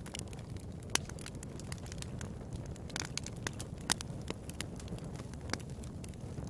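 Fire crackling in a fireplace: a steady low rumble of flames with frequent sharp pops, the loudest about a second in and near four seconds in.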